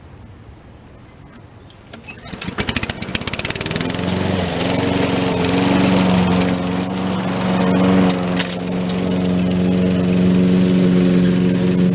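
Gasoline lawn mower engine starting about two seconds in: a rapid, uneven burst of firing that settles within a couple of seconds into a steady run.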